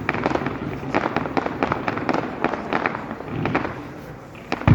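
Fireworks going off in quick succession: a dense string of sharp bangs and crackles, with one heavy low boom near the end.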